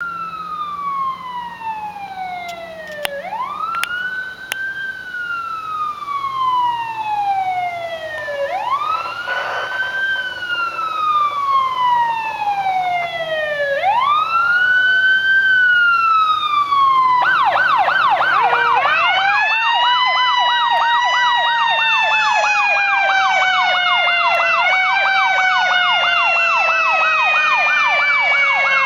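Fire engine siren sounding a slow wail, each cycle rising fast and falling slowly over about five seconds. Past the middle it switches to a rapid yelp, about three cycles a second, with a lower wail tone climbing and slowly falling underneath.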